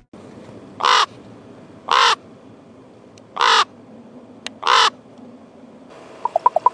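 A bird giving four short, harsh, raspy calls, spaced a second or more apart. Near the end a quick run of short pitched pips begins.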